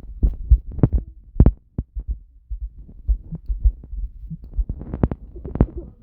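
A series of irregular dull thumps and knocks.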